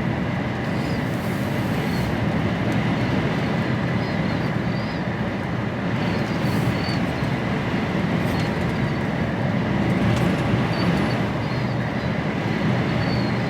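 Steady engine and road noise heard inside an HGV lorry's cab while driving.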